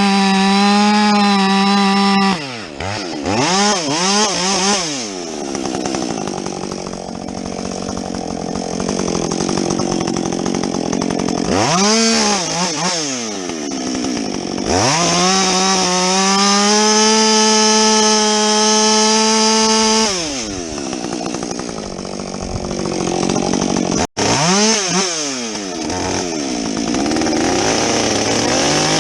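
Husqvarna 562XP two-stroke chainsaw with a modified muffler, running loud at high revs while bucking a felled tree. Its pitch holds steady for stretches, then sags and climbs again several times. The sound cuts out for an instant about two-thirds through.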